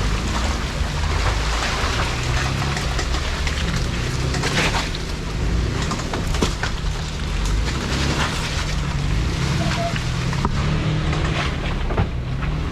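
Jeep Wrangler driving through water at low speed: the engine runs low under steady splashing and sloshing, with scattered knocks and clicks.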